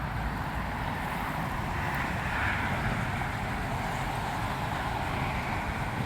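Steady outdoor background noise, a low rumble with a hiss above it, swelling slightly about two seconds in.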